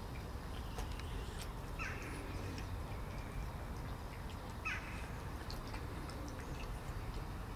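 A bird gives two short calls about three seconds apart, each falling in pitch, over a steady low outdoor rumble. A few faint ticks come from a cat chewing wet food from a plastic tray.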